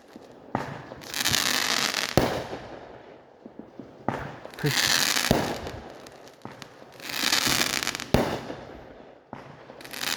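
Fireworks going off in a steady series: about six sharp bangs, one every one and a half to two seconds, each followed by a second or two of crackling.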